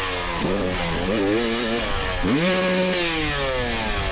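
2024 GasGas EX300 two-stroke dirt bike engine, throttle blipped a few times and then revved up sharply about two seconds in, held briefly and easing off near the end.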